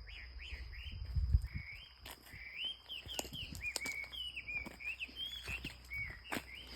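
A bird singing a run of short, rising and falling whistled chirps over a steady high insect drone, with footsteps and light knocks, and one low thump a little over a second in.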